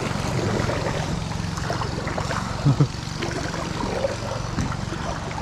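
A motorboat engine running steadily close by, a low drone, with two brief loud blips about two and a half seconds in.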